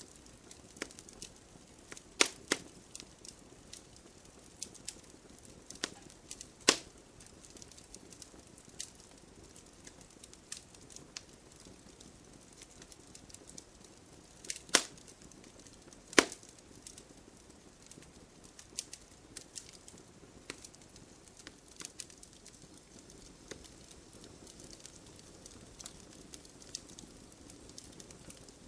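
Wood fire burning in a fireplace, crackling with irregular sharp pops and snaps over a faint steady hiss. A few pops stand out louder, about 2, 7, 15 and 16 seconds in.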